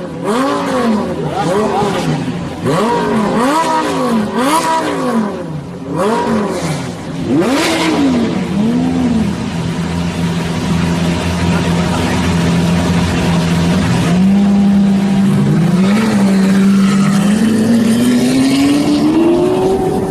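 Sports car engine revved in a string of quick blips, the pitch rising and falling about once a second. Then it settles to a steady drone and climbs slowly again near the end.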